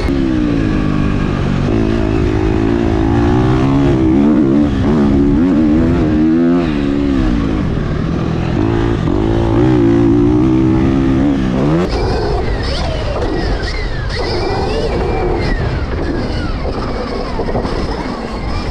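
Dirt bike ridden hard around a motocross track, its pitch rising and falling over and over with the throttle through corners and straights. About twelve seconds in the steady note gives way to a noisier sound with thinner, higher gliding tones.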